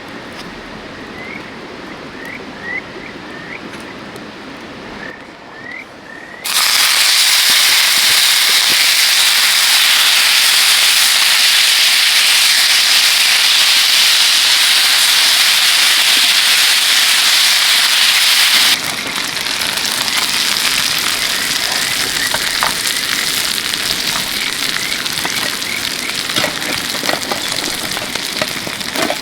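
Food sizzling in a hot pan: a loud, even sizzle starts suddenly about a third of the way in and cuts off suddenly later, giving way to a quieter sizzle with crackles. Before it, a steady river rush with short repeated chirps.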